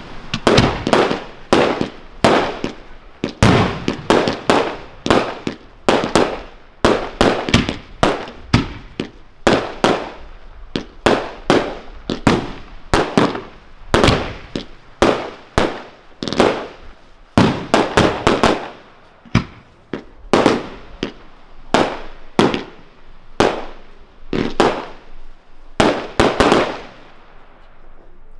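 Aerial fireworks shells bursting in a fast barrage, a sharp bang every half second to second, each trailing off in an echo. The bangs stop about two seconds before the end.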